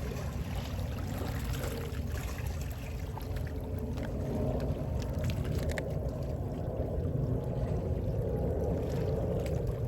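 Gentle sea waves washing ashore, a steady wash with small splashes and crackles, swelling a little from about four seconds in.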